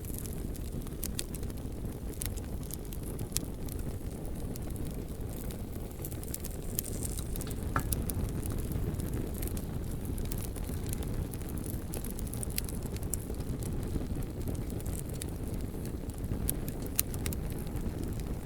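Wood bonfire burning: a steady low rumble with irregular sharp crackles and pops throughout, and a short faint whistle about eight seconds in.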